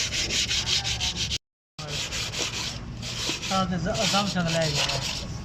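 Cylinder head face being sanded flat by hand: a rapid, even run of rasping back-and-forth strokes, with a short break about a second and a half in.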